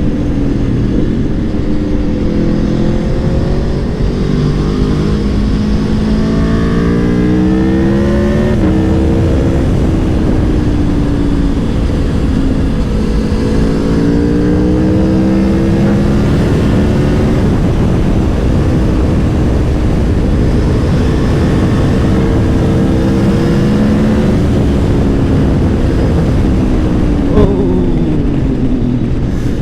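Aprilia Tuono V4 Factory's 1.1-litre V4 engine under way at speed, revs climbing under throttle and dropping sharply at gear changes several times over. A short, sharp crack sounds near the end.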